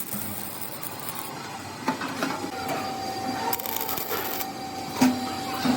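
Workshop noise from a machine running, with a steady tone from about halfway through that stops shortly before the end, and a few sharp knocks.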